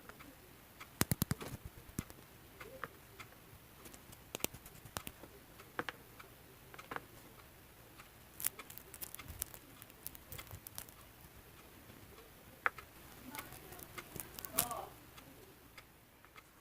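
Slime mixed with crunchy kohakuto candy being squished and pressed by hand, giving irregular sharp clicks and crackly pops in small clusters.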